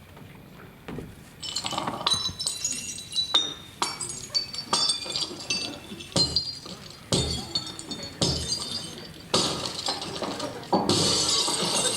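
Repeated clinking and clattering of dishes and glassware being rummaged through, starting about a second and a half in and getting busier and louder towards the end.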